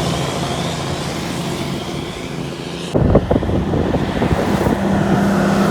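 Highway traffic: a heavy vehicle passes with tyre and engine noise that fades, then the sound changes abruptly about three seconds in to another engine running close by with a steady low hum.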